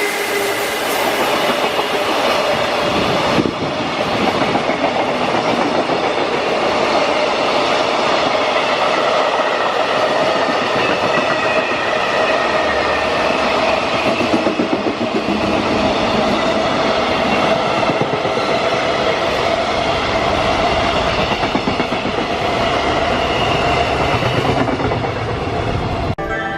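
A freight train passing through a station: a long, loud, steady run of wheels on rails as the wagons roll by, with faint ringing tones over the noise.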